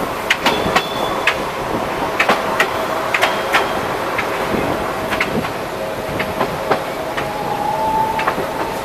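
DEMU commuter train running along the track, heard from a carriage window: a steady running noise with a string of sharp clicks from the wheels over the rails, and a brief higher whine near the end.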